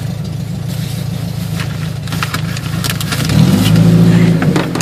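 An engine running steadily, then revving up and getting louder about three and a half seconds in.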